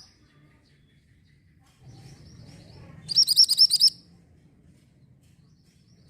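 Orange mantenan (minivet) singing: a quick run of about eight high, sweeping notes just past the middle, with softer chirps a moment before.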